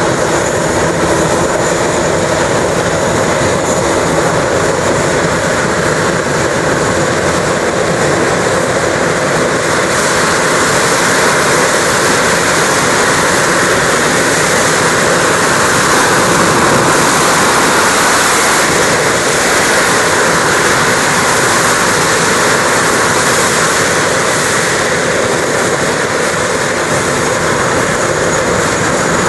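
BAC Lightning's twin Rolls-Royce Avon turbojets running with afterburner (reheat) lit: loud, steady jet noise with a faint high whine, swelling a little about halfway through.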